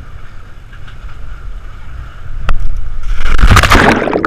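Low rumble of wind on the microphone, then about three seconds in a sudden loud rush of splashing water.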